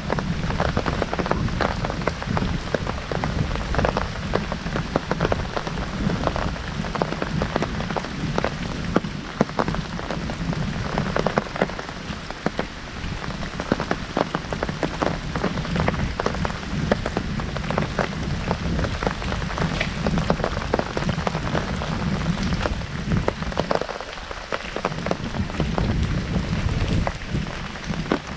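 Heavy rain on an umbrella held overhead: a dense, steady patter of drops hitting the canopy.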